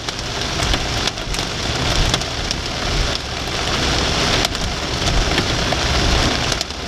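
Heavy rain pelting the car's roof and windshield: a dense, steady hiss of drops with many sharp ticks, over the rumble of the car driving on a wet road.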